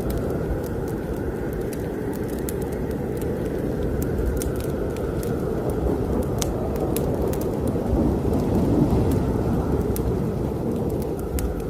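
Heavy snowstorm wind blowing steadily, swelling for a moment about two-thirds of the way through, with the scattered pops and crackles of a wood fire in a fireplace.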